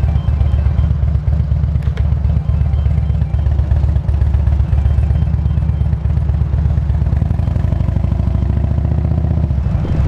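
Harley-Davidson Electra Glide's V-twin engine running at low speed, a steady deep rumble whose note drops about seven seconds in.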